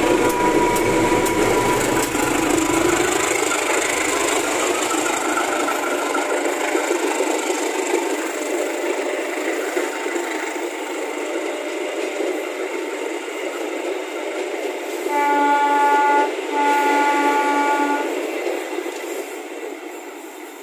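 A CC203 diesel-electric locomotive passes close by, its engine running, followed by passenger coaches rolling past with steady wheel-on-rail noise. About fifteen seconds in, a train horn blows twice, two blasts of about a second each, the loudest sound here. The train noise then fades as it moves away near the end.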